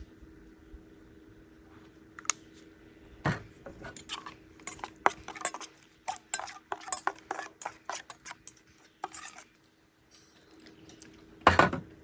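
Metal dishes and utensils clinking and clattering in a quick run of short knocks, with a louder clatter near the end, over a faint steady hum.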